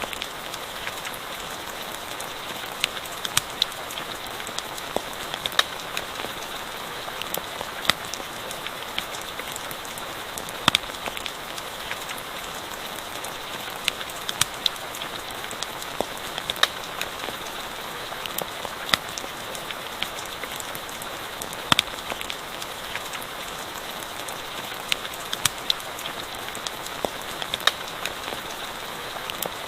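Steady rain with a wood campfire crackling, sharp irregular pops and ticks scattered over the even hiss about once or twice a second.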